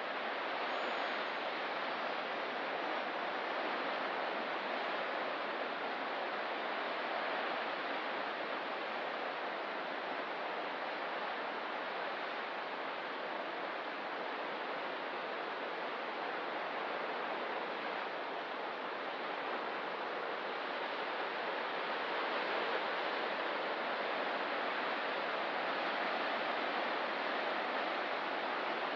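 Ocean surf making a steady, even rushing wash, with no single wave breaks standing out and a slight swell in level near the end.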